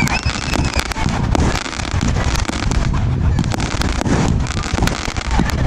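A 1.3G firework display cake firing a rapid, irregular string of shots and bursts, with a constant low rumble beneath.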